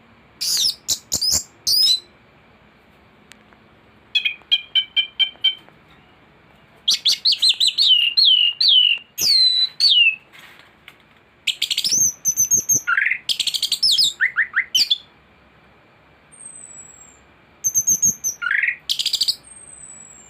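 Anis thrush singing loudly in repeated bursts of rapid chirps, trills and downward-slurred whistles, with short pauses between phrases. The song is packed with mimicked calls of other birds.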